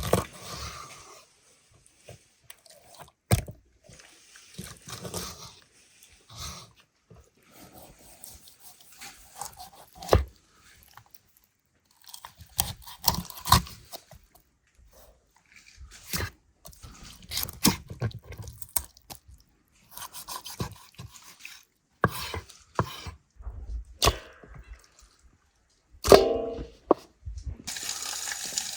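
Food-preparation handling sounds: scattered sharp knocks and clicks with brief rustling between them. Near the end, water starts running steadily.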